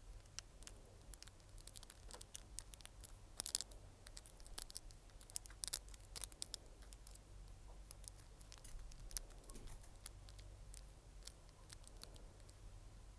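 Close-miked ASMR mouth sounds: many quick, irregular crisp clicks and pops.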